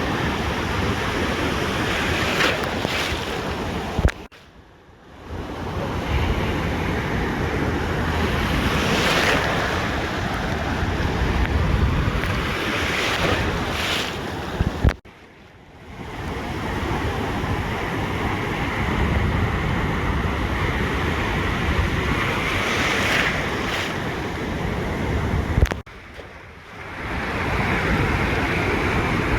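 Ocean waves washing up on a beach, steady surf noise with wind buffeting the microphone. About 4, 15 and 26 seconds in, a sharp click comes and the sound drops out for a second or so before coming back.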